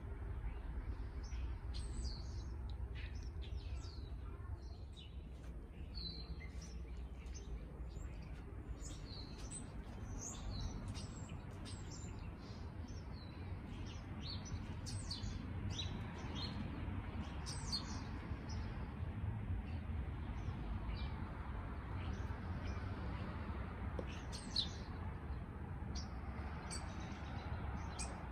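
Small birds chirping, many short high calls one after another, over a steady low background rumble.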